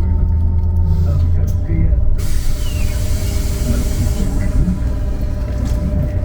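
Trolleybus heard from inside, its electric drive giving a steady hum with a thin whine. About two seconds in comes a sudden hiss of compressed air that lasts about two seconds.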